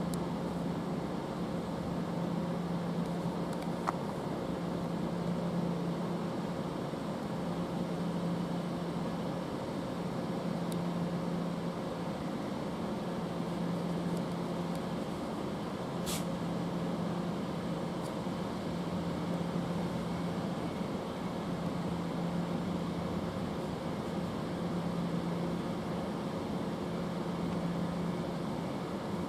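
Steady electric hum of a stationary electric train at the platform, its auxiliary equipment running with a low, slightly pulsing tone; a faint click about four seconds in and a sharp tick around sixteen seconds.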